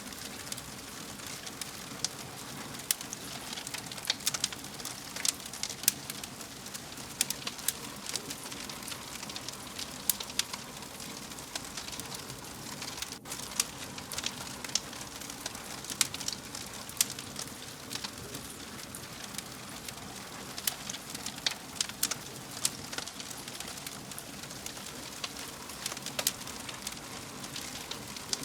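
Wood fire in a fireplace crackling, with irregular sharp pops and snaps over a steady hiss of burning.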